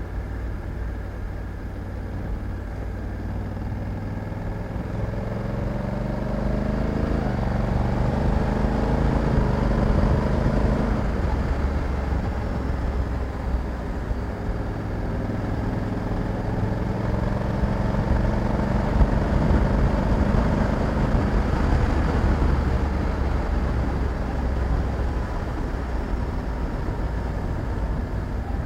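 Honda Africa Twin 1100 DCT's parallel-twin engine pulling on the move. The revs climb twice, with a step in pitch partway through the first climb like an automatic gear change, and ease off in between. Road and wind noise lie underneath.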